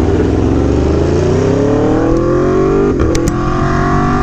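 Aprilia Tuono V4 1100 Factory's V4 engine through an SC Project CR-T exhaust, accelerating hard with the pitch rising steadily. About three seconds in it shifts up with a quick cut, then drops in pitch and climbs again.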